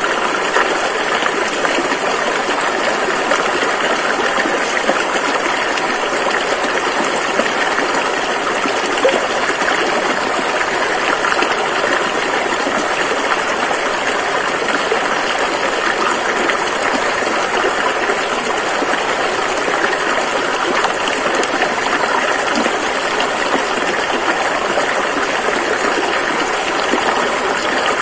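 A rushing river flowing over rocks: a steady, loud, even wash of water with no breaks.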